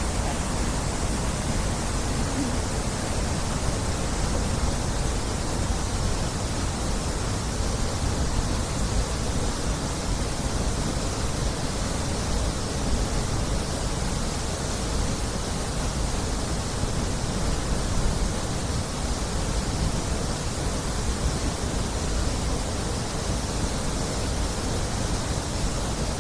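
Steady wind noise buffeting the microphone, a constant rushing hiss with a rumbling, fluttering low end.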